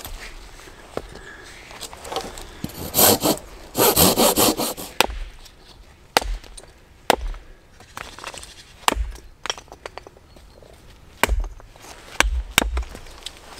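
Hand saw cutting through wood in two short bursts of rapid strokes a few seconds in. After that come scattered sharp cracks and dull knocks of wood being worked.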